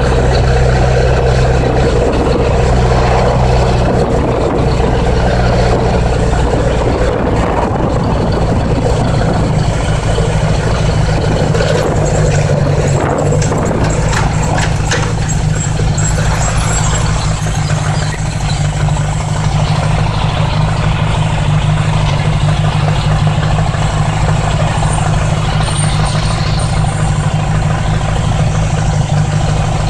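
1980s Honda Gold Wing motorcycle engine running steadily while riding, with wind noise over it. The engine note changes about seven seconds in and settles to a steady note a few seconds later.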